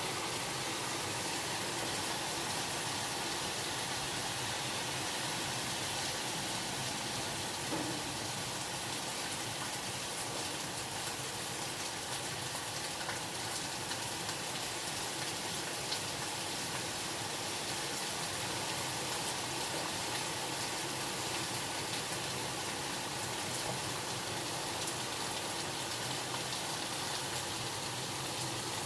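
Steady rain: an even hiss that does not change, with a few faint drop ticks.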